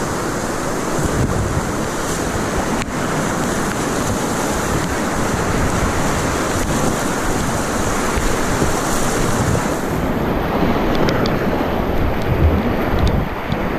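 Steady rush of wind buffeting an action camera's microphone, mixed with water noise around a kayak.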